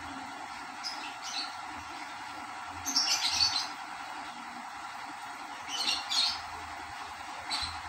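A small bird chirping in short bursts about every two to three seconds, over a steady background hiss.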